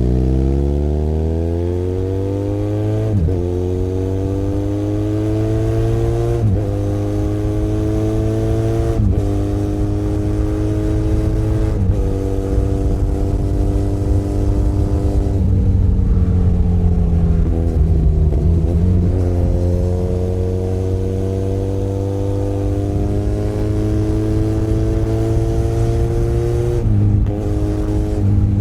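Benelli Leoncino 500 Trail's parallel-twin engine pulling hard through the gears: the pitch climbs and drops sharply at each of about four quick upshifts. It then settles, eases off briefly, and builds slowly again to one more shift near the end, with wind rush behind it.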